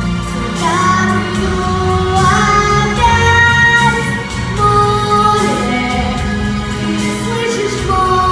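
A song: a solo voice singing long held notes, sliding up into some of them, over a pop backing track with a steady bass.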